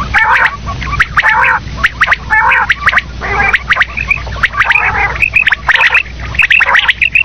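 Common quail calling loudly over and over: sharp short notes mixed with scratchy, burbling phrases, about one phrase a second.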